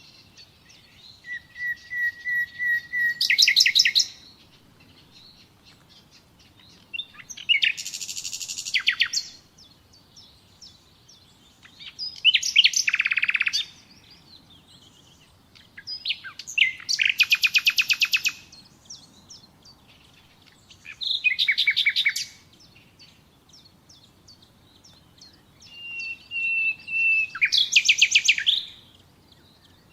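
Nightingale singing: about six song phrases split by pauses of a couple of seconds, some opening with a held whistled note before a fast run of repeated notes.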